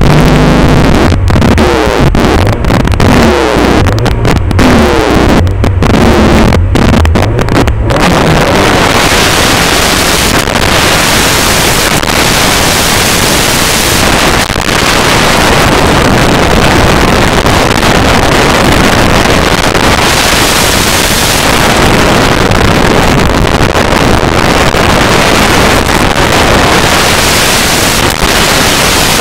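Mitsubishi Lancer Evo VI's turbocharged four-cylinder engine revving with the car held at the start, its note rising and falling with short cut-outs. From about eight seconds in, with the car running flat out up the hill, the overloaded in-car recording becomes a dense, distorted wash of engine, road and wind noise.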